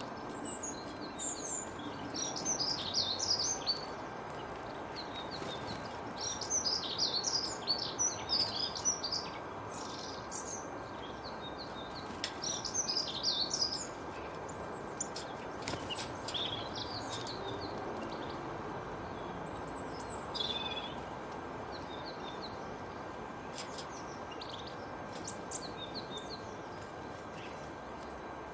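Songbirds singing in repeated short bursts of rapid chirps over steady background noise. The chirping is busiest in the first half and thins to sparser, fainter calls in the second half.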